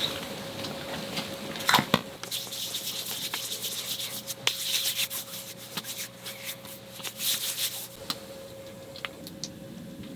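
Rustling and rubbing sounds of something being handled, with a sharp knock just under two seconds in, over a faint steady hum. The rustling dies down about eight seconds in.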